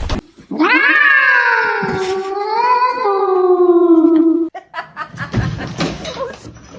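A cat's long drawn-out yowl, about four seconds, its pitch sliding down at the start and then wavering before it stops abruptly.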